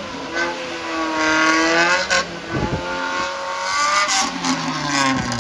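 Off-road 4x4 engine revving hard under load, its pitch rising and falling repeatedly as the throttle is worked.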